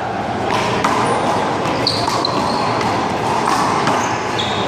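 One-wall handball play: a small rubber ball smacked by hand and bouncing off the wall and pavement, a few sharp smacks over steady background noise.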